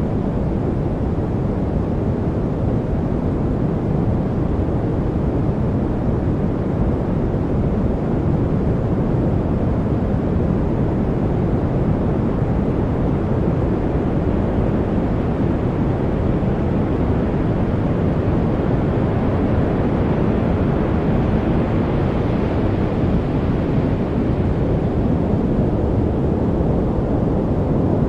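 Steady noise track, an even unbroken hiss with most of its weight low, so it sounds deep and rumbly rather than bright. It grows slightly brighter around the middle.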